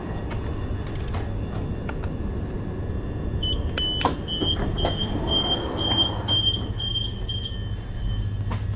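Southeastern Class 376 Networker electric train with a low steady rumble. From about three and a half seconds in, a high pulsing door-warning tone sounds for about four seconds, and there are a couple of sharp clicks.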